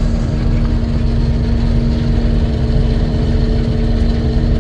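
Combine harvester running steadily while cutting soybeans: a constant low engine-and-machinery drone with a steady hum held at one pitch.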